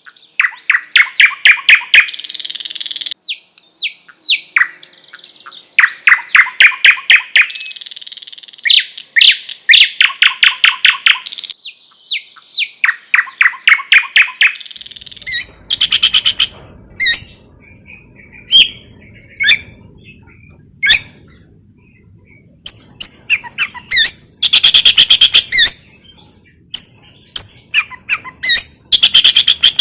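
Caged sikatan londo songbird singing, linking its song into oriental magpie-robin (kacer) style phrases: fast runs of repeated sharp notes for the first half. From about halfway, spaced single notes over a faint low hum, with dense runs of notes returning twice near the end.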